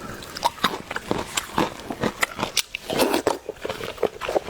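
A person chewing and biting meat close to the microphone: an irregular run of short mouth clicks, denser around three seconds in.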